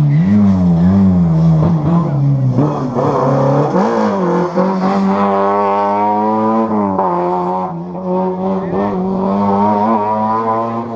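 Historic rally car engine at high revs on a special stage, its pitch rising and falling with throttle and gear changes, with a sharp drop about seven seconds in.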